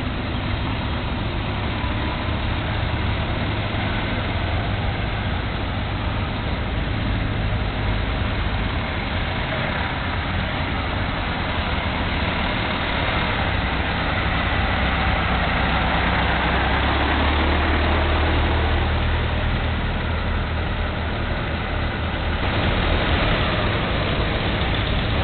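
Vintage cars' engines running as the cars roll slowly past one after another, a steady low rumble that swells as one passes close, about two-thirds of the way in. The sound changes abruptly near the end.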